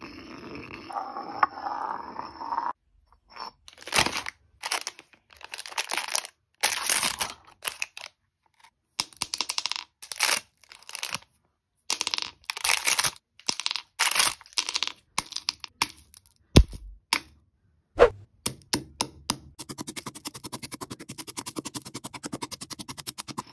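Objects being crushed: a run of short, separate crunching and crackling bursts, with two sharp cracks about two-thirds of the way through and a fast, even patter of small clicks near the end.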